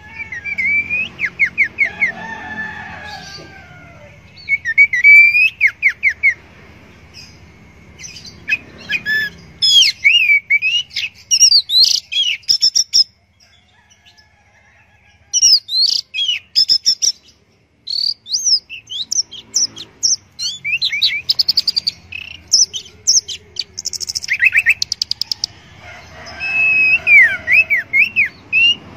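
Orange-headed thrush singing a long, varied song of fast whistled sweeps and trills, in phrases with a short break about halfway through.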